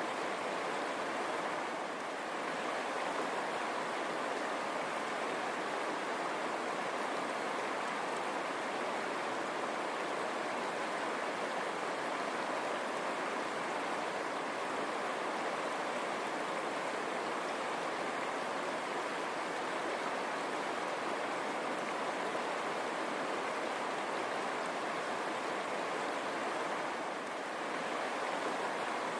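River water running steadily over stones, a continuous rushing burble.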